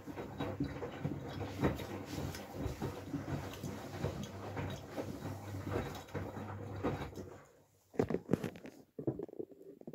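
Miele W433S washing machine drum turning a load of stuffed toys and pillows, with a steady motor hum and a constant patter of soft knocks. The drum stops about three quarters of the way in, leaving a few separate thumps near the end.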